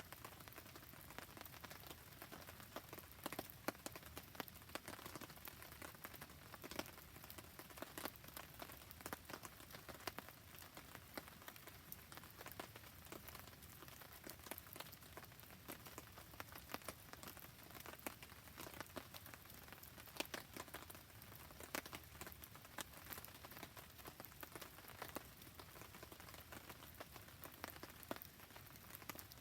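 Faint steady rain mixed with a campfire burning: a soft hiss dotted with a dense, irregular stream of small ticks and pops.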